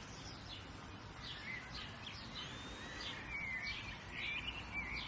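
Several birds chirping and warbling over a steady low outdoor hiss, with quick repeated chirps and brief twittering phrases throughout.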